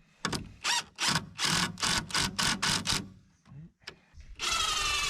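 Cordless drill driving a screw into fence lumber without a pilot hole, in about ten short trigger bursts over three seconds. Background music comes in near the end.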